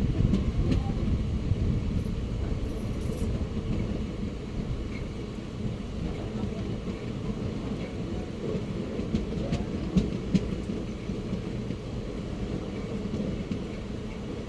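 Train running on the rails with a dense low rumble. It is loudest at the start and eases off over the first few seconds, then holds steady, with a few sharp clicks about ten seconds in.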